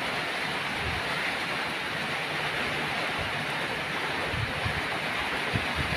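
Steady rain, an even hiss, with a few brief low rumbles of wind on the microphone.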